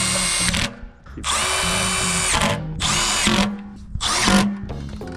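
Handheld power drill run in four short bursts, its motor whining high and steady, the last burst spinning up in pitch.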